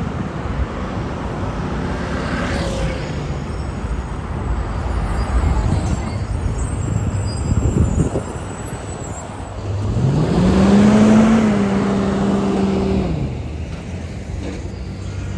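Road traffic going by. About ten seconds in, a passing vehicle's engine rises in pitch, holds, then drops away as it goes past; this is the loudest part.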